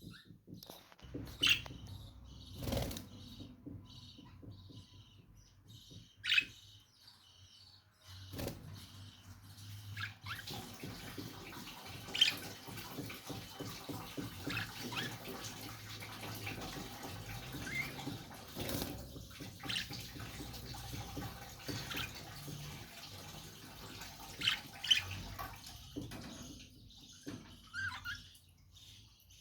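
Lovebirds giving several short, sharp chirps now and then over a steady rushing, water-like noise.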